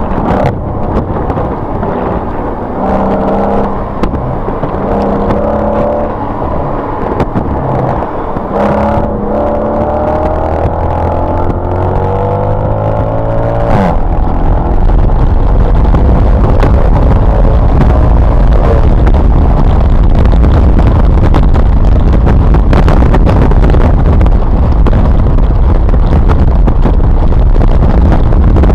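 Mercedes-Benz SLK engine accelerating on track, its pitch rising through the gears with short breaks at the shifts. From about halfway, loud wind buffeting on the microphone covers most of it.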